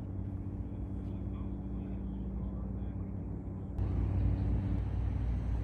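Steady low outdoor rumble with a faint hum, which turns abruptly louder about four seconds in.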